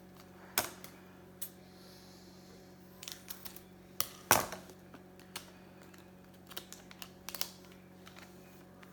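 Scattered light clicks and taps of trading cards and plastic card holders being handled, with a sharper double click about four seconds in, over a steady low electrical hum.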